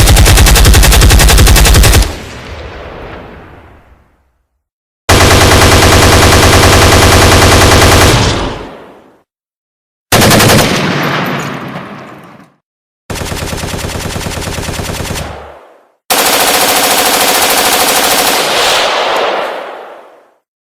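Sound-effect clips of automatic gunfire: five bursts of rapid shots, each lasting two to three seconds and trailing off in an echo, with dead silence between clips. The fourth burst is quieter than the others.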